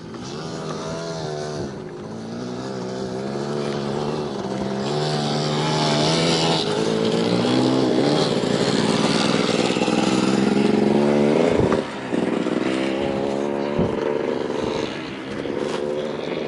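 Motorcycle engine running as the bike rides closer, growing steadily louder for about eleven seconds. The sound then drops back abruptly and the engine runs on more quietly.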